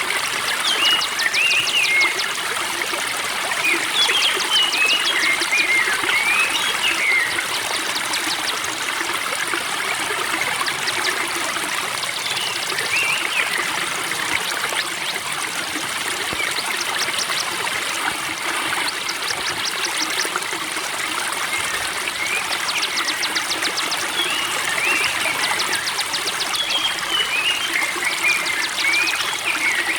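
Spring water trickling and babbling steadily, with a songbird singing over it in repeated short phrases of quick chirps and rapid trills.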